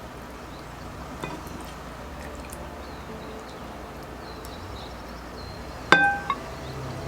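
Tableware clinking: a faint tap about a second in, then one sharp, ringing clink near the end, like a glass or ceramic dish being struck or set down, with its ring dying away quickly.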